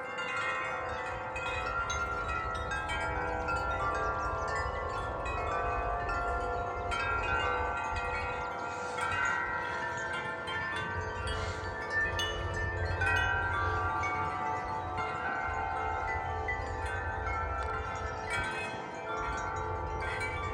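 Corinthian Bells wind chime ringing without a break in the wind, many overlapping notes struck again and again and dying away. A low rumble of wind lies underneath.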